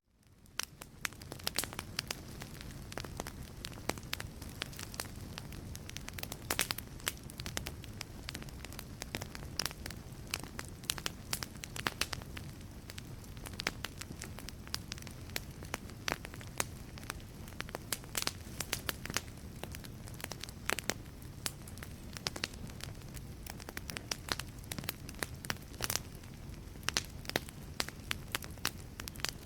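Wood fire burning in a fireplace: a steady low rumble with frequent sharp crackles and pops from the burning logs. The sound drops out for an instant at the very start and fades back in over about a second.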